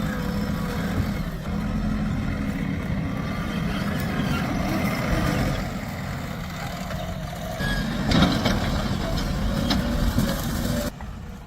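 JCB 3DX Plus backhoe loader's four-cylinder diesel engine running under working load, steady and low, with a louder surge about eight seconds in. The sound cuts off abruptly near the end.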